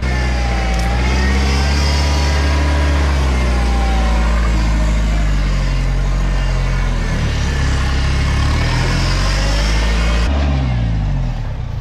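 Off-road 4WD engine revving hard under load, the revs rising and falling. About ten seconds in, the revs drop away.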